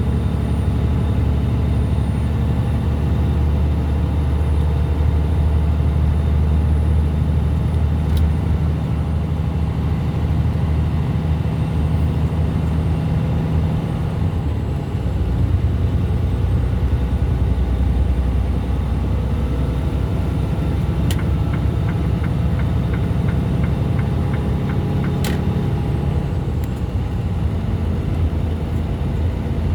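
Truck engine and road noise heard inside the cab while driving on the highway. The engine note shifts about halfway through, and there is a short run of light, regular ticking a little past two-thirds of the way in.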